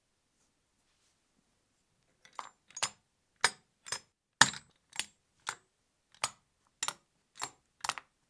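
Small parts of a scale V12 engine model kit clicking and clinking as they are handled and fitted together: about a dozen light, sharp knocks, roughly two a second, starting about two seconds in.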